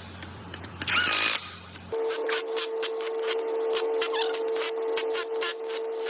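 Power tool and assembly-machine sounds: a brief hiss about a second in, then a steady mechanical hum with rapid sharp clicks and ticks.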